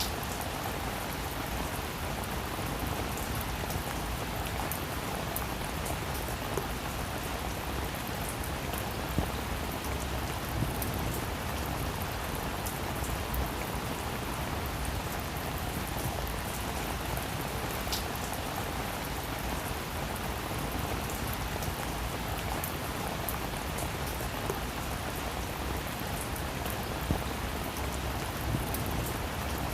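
Heavy rain falling steadily, a dense even hiss with scattered louder drops.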